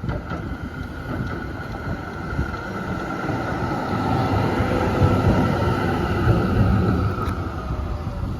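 Z3-class tram running on its tracks: a low rumble that grows louder through the middle and eases near the end, with a steady high whine above it.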